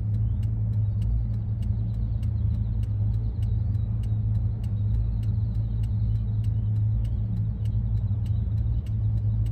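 Steady low rumble of a 2001 Ford E-350 van on the move, heard from inside the cabin: engine and road noise.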